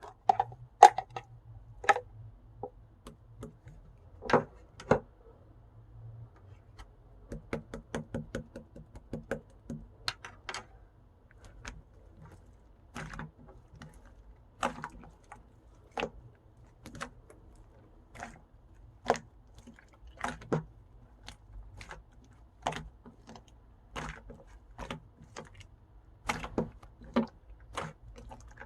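Pink pearl slime being pressed and folded by hand, giving sharp, irregular clicks and pops, with a quick run of small crackles about seven to nine seconds in.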